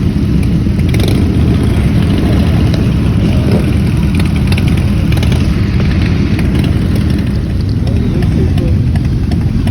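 Motorcycle engines running steadily, a loud, even low rumble with no change in pitch.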